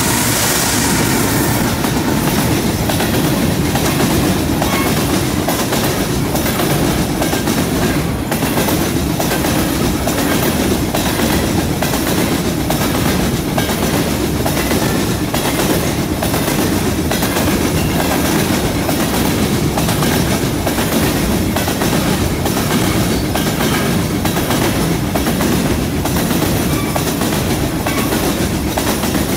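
Long freight train of covered hopper cars rolling past close by: a loud, steady rumble with the wheels clacking in a regular rhythm.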